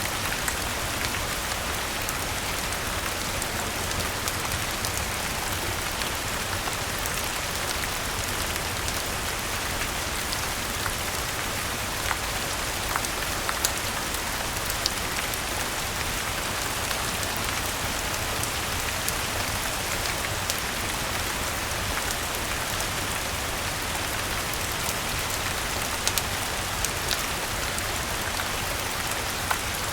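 Steady rain falling, an even hiss with scattered sharp ticks of individual drops or small pops throughout.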